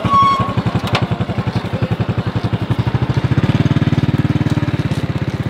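Small engine running with a fast, even putter, getting louder about three seconds in. A brief high tone sounds near the start.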